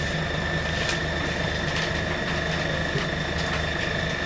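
Diesel engine of a 1948 Victorian Railways rail motor running steadily, with a constant high-pitched whine over the engine note and a few faint clicks.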